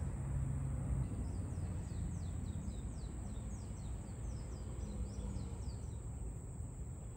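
A bird calling in a quick series of short, high, falling chirps for a few seconds, over a steady low outdoor rumble and a thin steady high tone.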